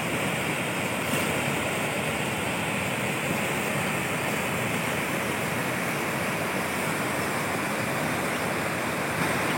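A steady rushing noise that holds even throughout, with no distinct sounds standing out.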